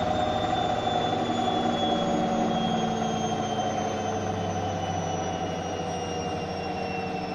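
Zanussi ZWH7148P washing machine slowing down from a spin: a motor whine falling slowly in pitch over a fast, dense rumble, gradually getting quieter.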